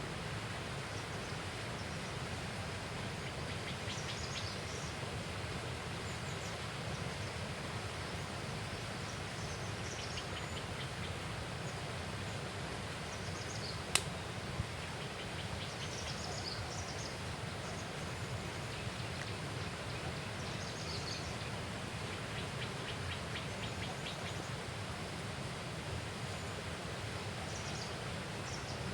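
Steady outdoor ambience of a riverbank with faint bird chirps and trills every few seconds. A single sharp click sounds about halfway through.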